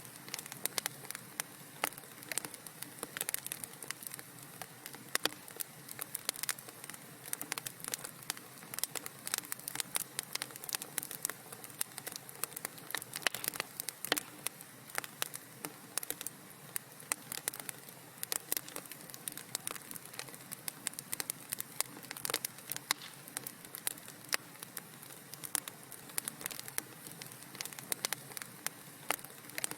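Wood fire in a fireplace crackling: a steady stream of irregular small pops and snaps over a soft hiss.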